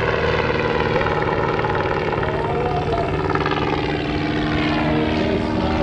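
Long-EZ's Lycoming IO-320 four-cylinder engine and pusher propeller droning steadily in flight. Its pitch glides slowly downward over the first few seconds.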